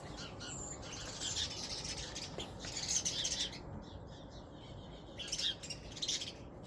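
Birds chirping in short, scattered bursts.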